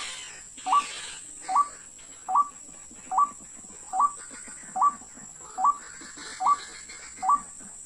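White-breasted waterhen call: a steady series of short, sharply rising notes, a little under one per second, repeated very evenly.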